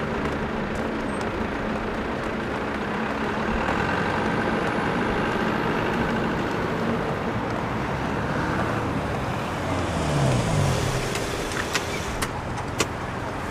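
LNG city bus running at a stop and pulling away, with its engine note rising about ten seconds in, over steady street traffic.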